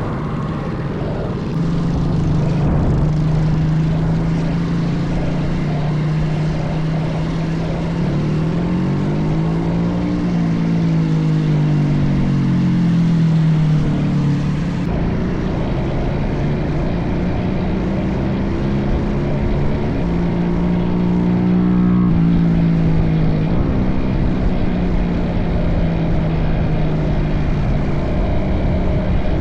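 Small minibike engine running steadily, its pitch rising and falling with the throttle about eight to fourteen seconds in and again around twenty seconds in.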